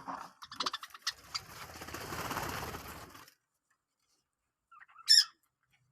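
Pet lovebird: a rustling, fluttering noise for about three seconds, then a single sharp, high chirp near the end.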